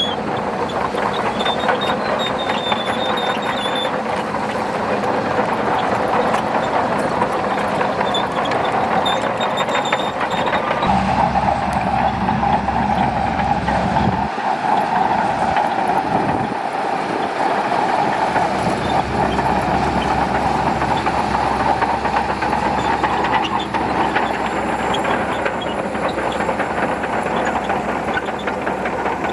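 Shantui DH17C2 crawler bulldozer working: its diesel engine runs steadily under load while the steel tracks clatter as it pushes sand. A deeper engine note comes in about 11 seconds in, drops out briefly, then returns.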